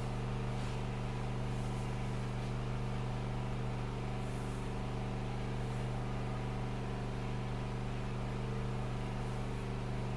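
Steady low machine hum with a stack of even tones that holds unchanged throughout.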